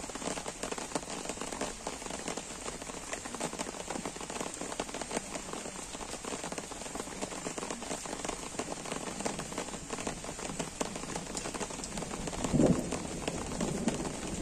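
Gentle rain falling steadily, a dense patter of drops, with a brief louder low sound near the end.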